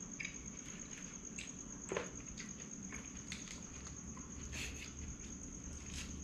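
A toddler chewing and crunching a fresh lettuce leaf, heard as scattered small crunches and wet clicks.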